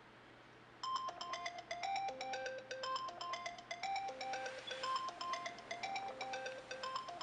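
A mobile phone ringtone: a bright melody of short, clear notes that starts about a second in and repeats about every two seconds.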